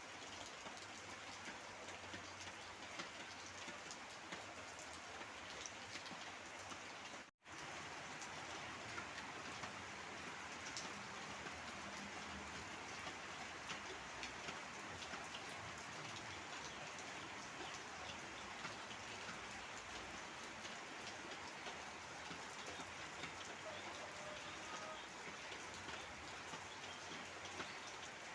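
Heavy rain falling steadily, a dense patter of drops hitting surfaces. The sound cuts out for an instant about seven seconds in, then resumes unchanged.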